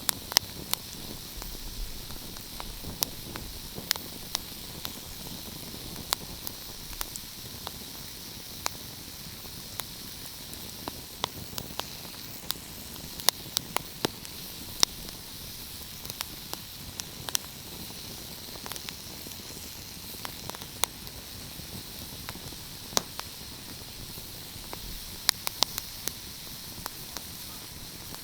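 Fire crackling: irregular sharp pops and snaps, some in quick clusters, over a steady hiss.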